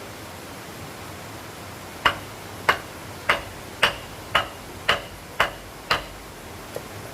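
A hammer striking wood in a steady run of eight sharp blows, about two a second, beginning about two seconds in, with a faint tap near the end.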